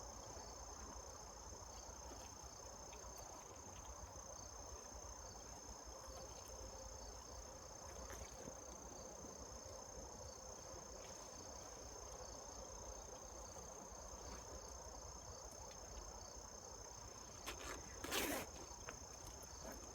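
Crickets trilling in a steady, high-pitched chorus, over a faint hum of honeybees flying around the hive. A short rustle near the end.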